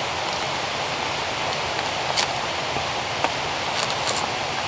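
Steady hiss of rushing water in a wet rainforest, with a few sharp clicks about two seconds in and a quick cluster of clicks near the end.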